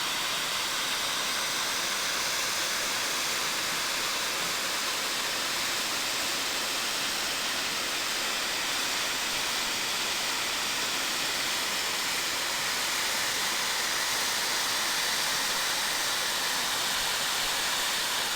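Heavy flood water pouring down a dam spillway: a steady, loud rush without a break.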